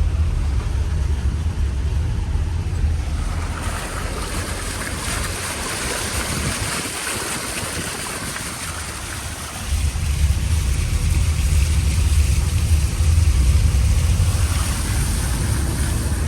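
A vehicle driving on a flooded, rain-soaked road: a steady hiss of water spray from the tyres over a low rumble. The rumble drops away for several seconds in the middle and returns about ten seconds in.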